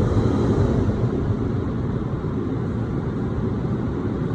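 Automatic car wash running over the car, heard from inside the cabin: a steady rushing noise of water spray or air, easing slightly toward the end.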